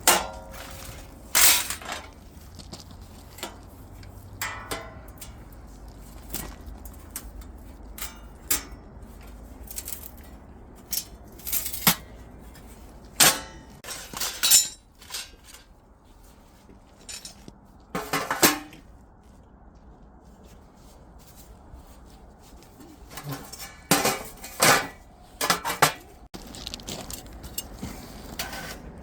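Dishes and metal utensils being handled at a camp table: scattered clinks, taps and knocks, coming in louder clusters a few times, over a low steady rumble.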